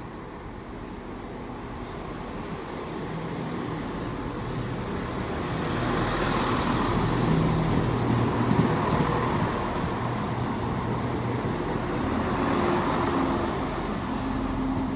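Class 170 Turbostar diesel multiple unit passing through the station, its diesel engines and wheel noise growing louder to a peak about seven to nine seconds in, then easing off as it moves away.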